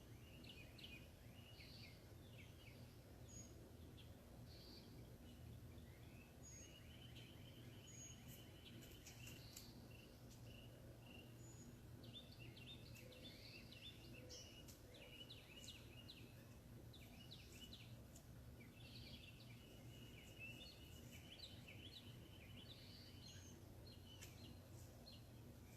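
Faint birdsong: many short chirps and trills from several birds, over a low steady hum.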